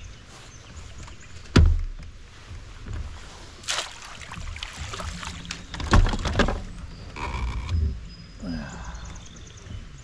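Thumps and knocks against a kayak's hull, a loud one about a second and a half in and another about six seconds in, with smaller knocks between, over a steady wash of rain noise.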